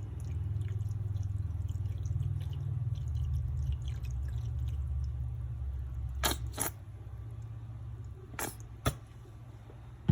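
Kitchen handling sounds while a chicken is being marinated: sauce squeezed and dripping from a bottle under a steady low hum, with two pairs of sharp clicks, about six and a half and eight and a half seconds in.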